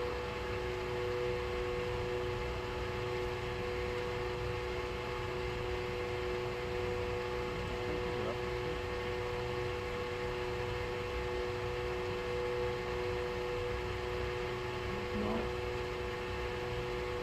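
A steady machine hum holding two even tones over a low rumble, unchanging throughout.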